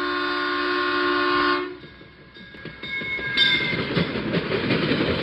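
Locomotive air horn holding a steady chord that cuts off about two seconds in, followed by the rumble and clatter of a passing train.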